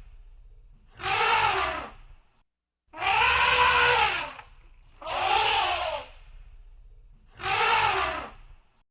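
Elephant trumpeting: four calls about two seconds apart, each lasting about a second and rising then falling in pitch.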